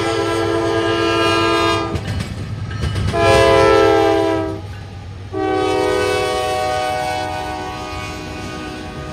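Norfolk Southern diesel locomotive's multi-chime air horn sounding three blasts: one ends about two seconds in, a shorter, louder one follows, then a long one that slowly fades. The sequence fits the long-long-short-long grade-crossing signal. The low rumble and rail clatter of the passing freight train sound under the horn.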